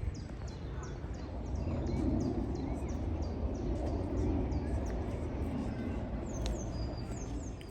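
Small birds chirping in quick, high, repeated notes over steady outdoor background noise and a low murmur.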